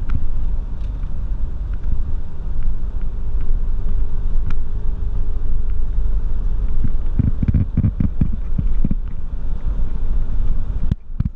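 Baler machinery running: a steady low engine rumble, with a quick run of heavy knocks about seven to nine seconds in.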